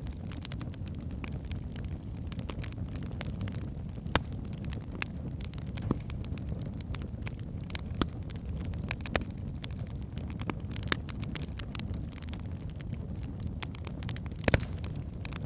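Wood fire burning in a fireplace: a steady low rumble of flames with irregular sharp crackles and pops from the logs, a few louder snaps standing out, the loudest about fourteen seconds in.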